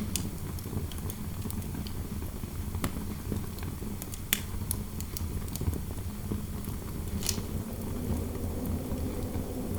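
Wood fire in a fireplace crackling, with irregular sharp pops, the clearest about three, four and seven seconds in, over a steady low rumble of wind noise.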